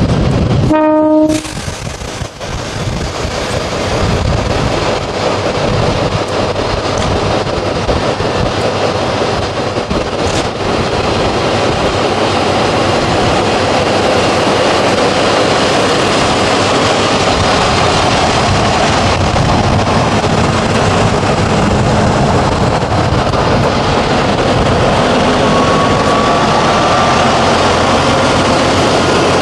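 A heritage railway train running past at close range, with a dense, steady, loud noise. A short horn note sounds about a second in.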